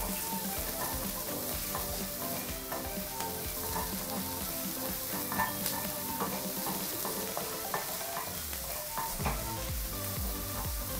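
Chopped onions and garlic sizzling in butter and oil in a stainless steel frying pan, stirred with a wooden spoon that scrapes and taps the pan now and then.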